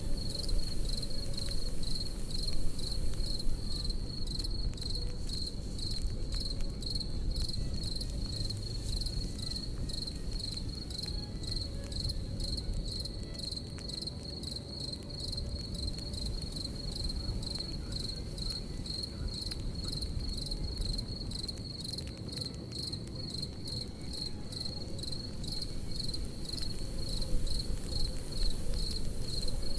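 Crickets chirping in an even, pulsing rhythm over the low, steady rush and scattered small crackles of a campfire.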